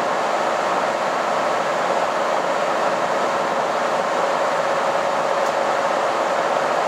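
Steady interior running noise of a KiHa 261 series diesel limited express railcar travelling at speed: an even rushing sound with a faint steady hum-tone beneath it.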